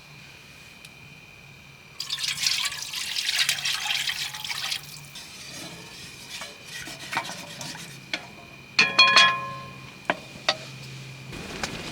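Liquid pouring for about three seconds, followed by scattered small knocks and a few sharp metallic clinks that ring briefly about nine seconds in.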